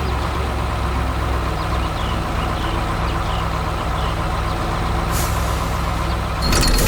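Heavy diesel machinery engine running steadily with a low hum. Near the end a louder, rapid rattling starts.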